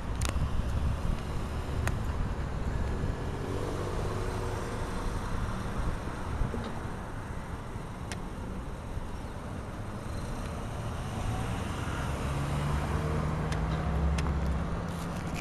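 Road traffic: cars passing through an intersection, a low steady rumble of engines and tyres, with one vehicle's engine hum swelling about twelve seconds in.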